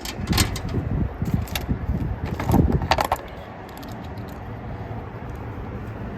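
Metallic jangling and clinking, a quick run of sharp clicks over the first three seconds, then only a low steady background rumble.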